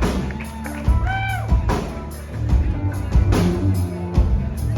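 Live rock band vamping: drum kit beating a steady groove with bass drum hits under held bass-guitar notes, with some guitar.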